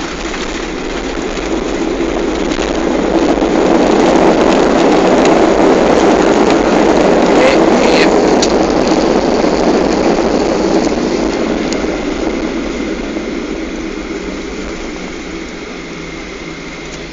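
Cabin roar of a Gol Boeing 737 just after touchdown: the jet engines' reverse thrust swells over the first few seconds, holds, then fades away as the airliner slows on the runway, with a few light cabin rattles in the middle.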